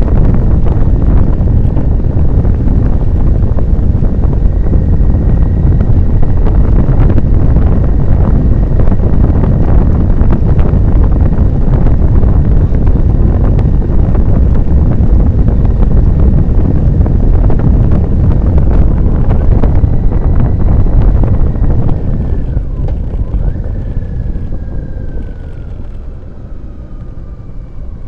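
A motorcycle riding at speed, with heavy wind buffeting the microphone and a steady thin engine note. About 22 seconds in, the wind noise drops and the engine note falls in pitch as the bike slows down.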